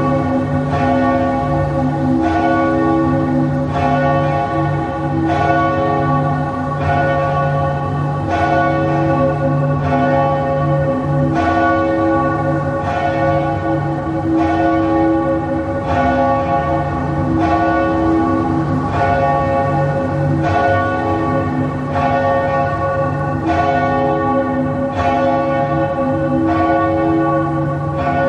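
Church bells tolling, a fresh stroke about once a second, with several bell tones ringing on and overlapping between strokes.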